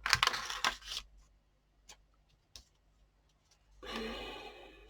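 Paper scraps being handled on a tabletop: a rustle at the start, a few light taps, and a second, longer rustle near the end.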